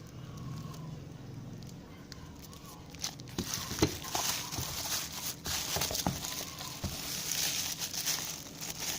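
Packaging crinkling and rustling as the contents of a box are handled, with scattered clicks and taps. It is quieter for the first few seconds and busier after about a third of the way in.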